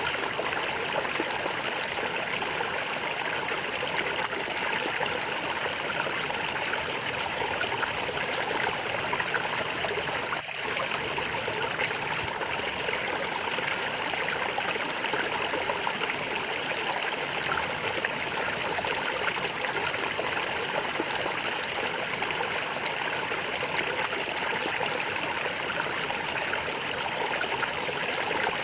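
Shallow stream of water flowing and gurgling steadily.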